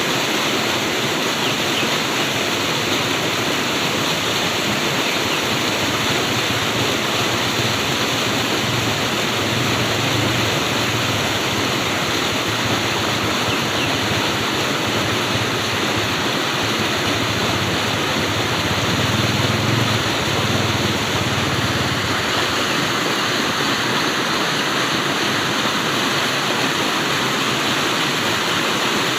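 Flowing water rushing steadily, an even, unbroken sound.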